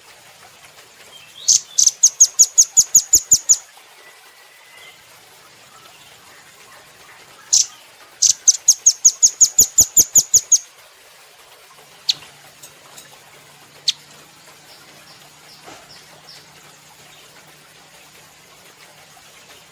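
Nuthatch calling: two fast runs of about a dozen sharp, high notes, around six a second, each run lasting about two seconds, with a few scattered single notes afterwards.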